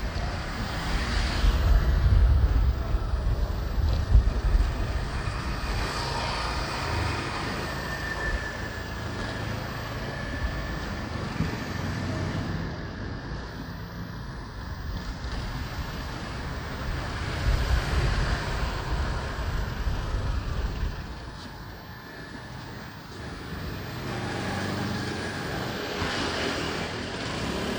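Riding noise from a motorbike in city traffic: wind buffeting the microphone over the bike's running engine and the road and traffic around it. It swells louder twice and eases off for a couple of seconds near the end.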